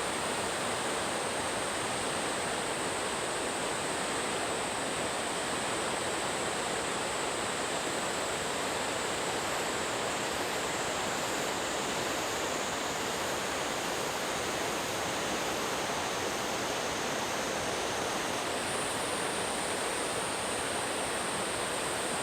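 Waterfall on Yakushima: falling water making a steady, unbroken rushing noise.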